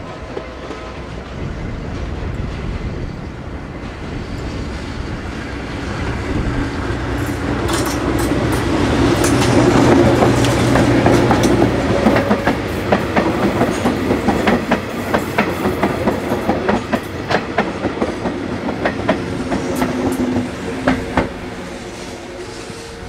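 Electric multiple-unit commuter train running past close by: a rumble and low hum build up, then come rapid clicks of the wheels over rail joints, loudest about halfway through, fading after about 21 seconds.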